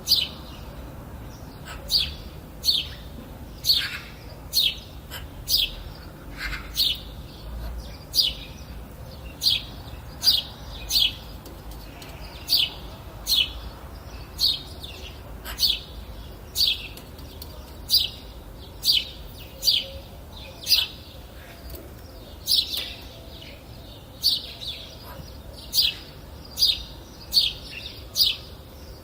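Bird chirping over and over: short high notes, each sliding down in pitch, coming about one to two a second, over a faint low rumble.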